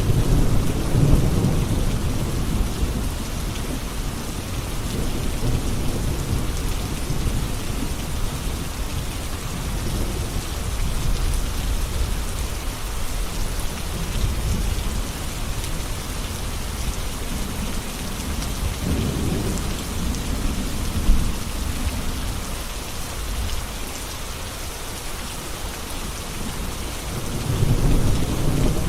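Steady heavy rain with thunder rumbling low several times, swelling near the start, again past the middle and once more near the end.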